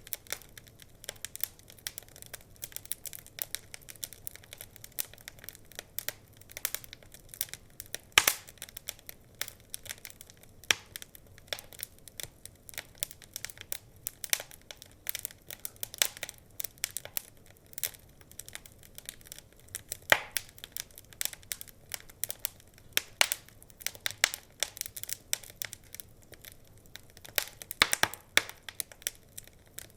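Wood fire crackling and popping in a fireplace: a dense, irregular run of sharp snaps, with a few louder pops about eight seconds in, twenty seconds in and near the end.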